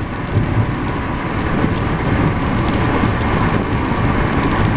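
Car driving in the rain: steady road and rain noise, with a few faint ticks.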